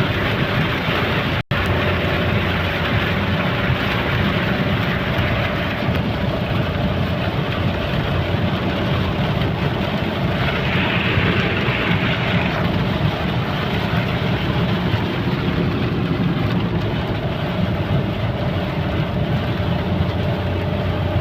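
Heavy rain falling in a steady downpour, with a brief dropout about a second and a half in.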